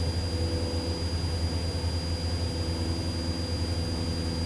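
Cessna 172's piston engine and propeller running steadily at climb power, heard from inside the cabin as a constant low drone with a thin steady high whine above it.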